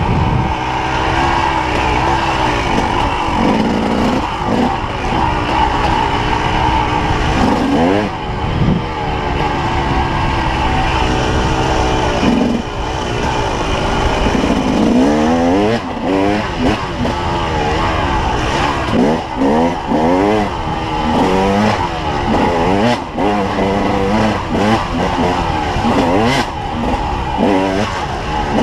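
Enduro motorcycle engine heard from on the bike, revving up and down with constant throttle changes. The rises and falls come in quick succession through the second half.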